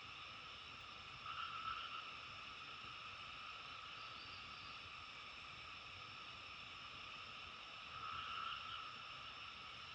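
A steady chorus of frogs calling, which swells louder twice: about a second in and again about eight seconds in.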